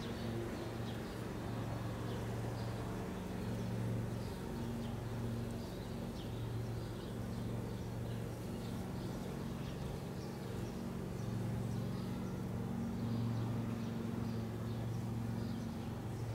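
Honey bees buzzing around an opened nuc box during a frame inspection: a steady hum that swells and fades every second or two.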